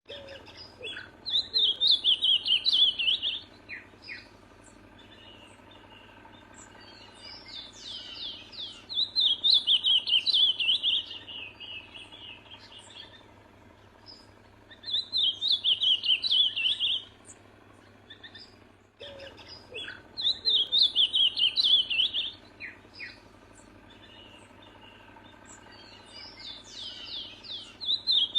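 Ultramarine grosbeak (azulão) singing: five warbled song phrases of two to four seconds each, repeated with pauses of a few seconds between them.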